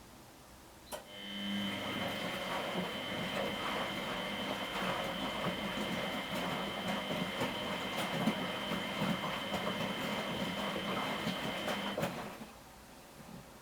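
1993 Miele Professional WS 5426 washing machine during its prewash: a click about a second in, then about eleven seconds of steady running with a thin high whistle over the noise, cut off by another click near the end.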